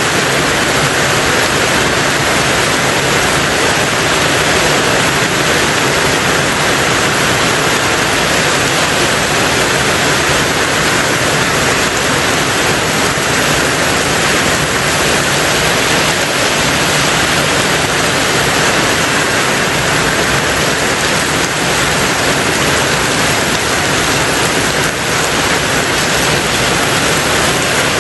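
Heavy rain on a tin roof: a loud, steady, even hiss with no separate drops standing out.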